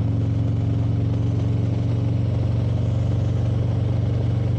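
Motorcycle engine running at a steady cruise, a low, even drone that holds without change.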